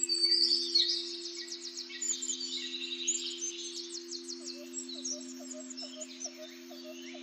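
Several birds chirping and calling together, with a fast trill of rapidly repeated notes in the first few seconds. Underneath, a steady low hum of two held tones.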